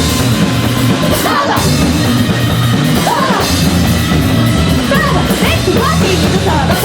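Punk rock band playing live at full volume: drum kit and electric guitars with a heavy low end, and pitch bends sliding through the mix.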